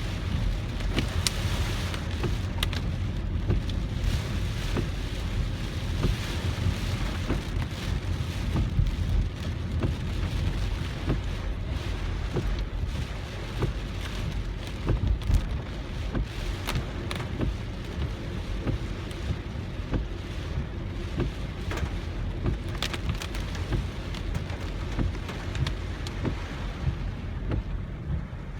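Heavy typhoon rain pattering on a moving car, many sharp drop hits over a steady low rumble of the car driving on wet road.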